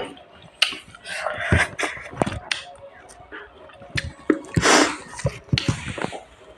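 Close-up eating sounds: sharp crunches, smacks and wet mouth noises from biting and chewing raw gooseberries, with a longer breathy sound about halfway through.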